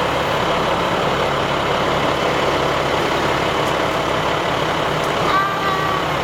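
Fire truck engine running steadily as the truck drives, with continuous engine and road noise. About five and a half seconds in, a brief high tone sounds for under a second.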